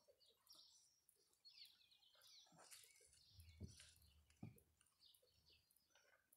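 Near silence with faint bird chirps and short quick sweeps, and two soft knocks about halfway through.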